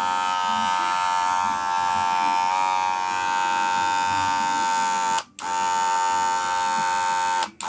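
Wahl Senior hair clipper running with a loud, steady buzz. It is switched on at the start, cut off for a moment about five seconds in and again near the end, restarting each time.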